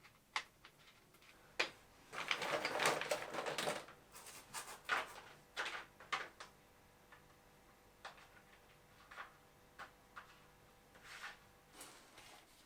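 Irregular clicks and knocks of hand work, with a longer, louder noisy burst about two seconds in that lasts under two seconds.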